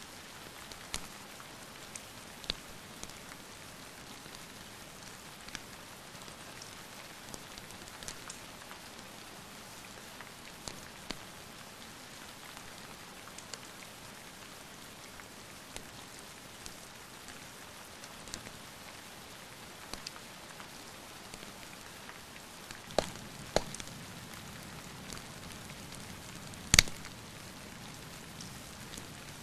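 Steady rain hiss with the scattered crackles and pops of a wood fire, a few louder pops near the end.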